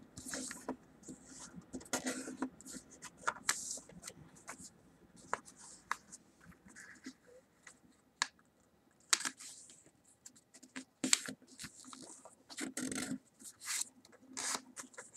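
A sheet of paper being folded along a line and creased flat, heard as quiet, irregular rustles and scrapes with small clicks and taps.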